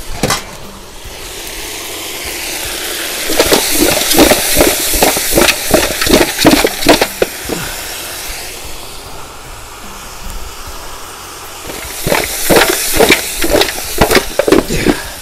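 Pig head pieces searing with garlic and onion in a hot pot: a steady sizzling hiss, with two spells of rapid knocking and scraping from stirring, about three seconds in and again about twelve seconds in.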